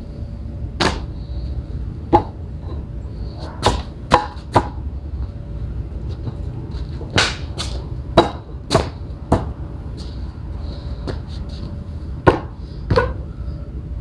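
Irregular sharp knocks, about a dozen, as porcelain patio pavers are struck to work them into place.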